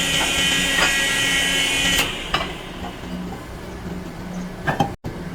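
Electric motor running with a steady whine, cutting off abruptly about two seconds in, followed by quieter workshop noise and a couple of clicks near the end.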